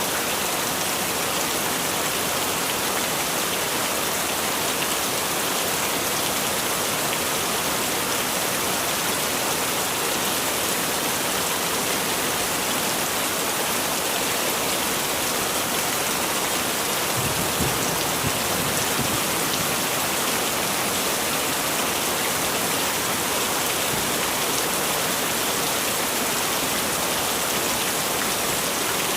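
Heavy rain falling steadily, a dense, even hiss of many drops. A brief low rumble comes in about two-thirds of the way through.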